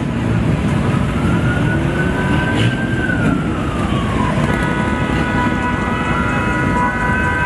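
Police car siren wailing, its pitch slowly rising and falling, joined about halfway by a steady held tone, over loud low noise from cars and crowd.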